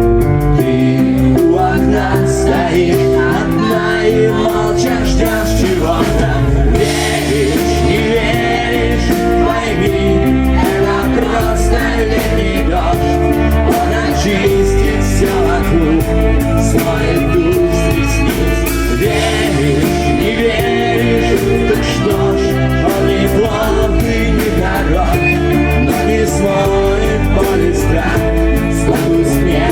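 Live rock band performing a song with a singer, band and drums, loud and continuous, recorded from the audience with the club's echo.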